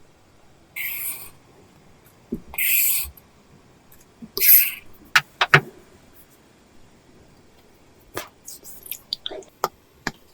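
Apple Pencil drawing on an iPad's paper-textured screen film: three short scratchy strokes in the first five seconds, then a run of sharp taps and small scratches of the pencil tip on the screen.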